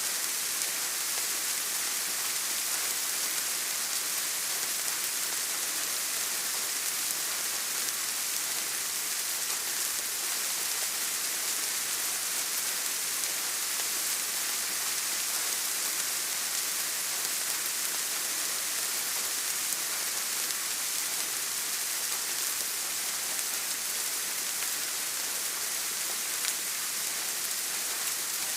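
Steady rain falling on a surface, an even hiss of many small drops with no pauses or changes.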